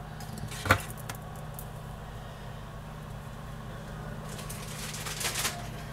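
Kitchen handling sounds over a steady low hum: a single sharp knock about a second in, then a plastic bag of frozen stir-fry vegetables rustling and crinkling near the end.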